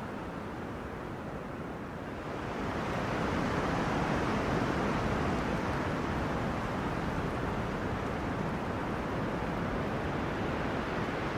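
Wind blowing through tree crowns as a steady rush of noise, with a gust swelling about two seconds in and holding.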